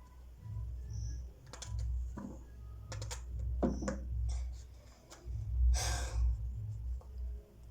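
Scattered light clicks and knocks from objects being handled, with a short rustling scrape about six seconds in, over a low rumble.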